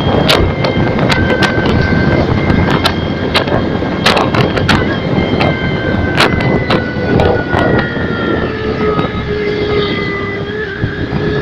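Honda New Megapro motorcycle fitted with a sound booster, running along at a steady engine note that sags slowly in pitch, with many sharp crackles over it.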